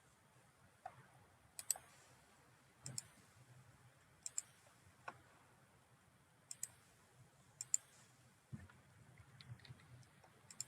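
Computer mouse clicking, faint: scattered single and double clicks, about every second or so.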